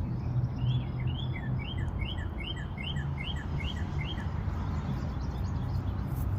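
A songbird singing a quick series of repeated two-note phrases, about two a second, nine times in a row, then stopping about four seconds in. A steady low rumble lies underneath.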